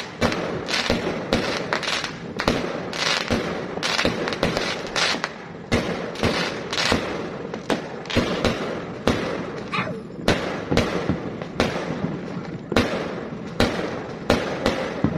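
New Year fireworks going off in rapid, irregular succession: sharp bangs and crackles, several a second, overlapping one another.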